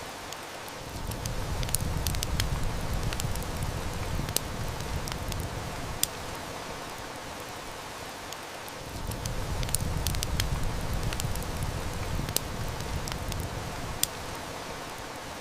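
Steady heavy rain with a wood fire crackling in scattered sharp snaps. A low rumble of distant thunder swells up twice.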